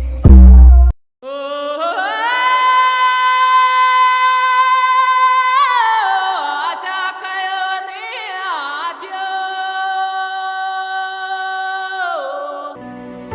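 A single high voice singing long held notes with no accompaniment, with a few quick ornamented turns about halfway through. It is preceded by heavy bass hits in the first second.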